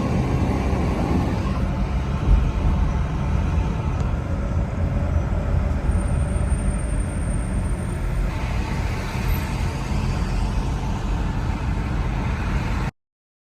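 Car driving in highway traffic: a steady rumble of road and engine noise, which cuts off abruptly near the end.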